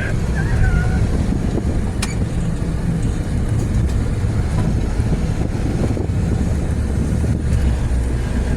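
Car driving steadily along a road, a constant low rumble of engine and tyre noise, with a single light click about two seconds in.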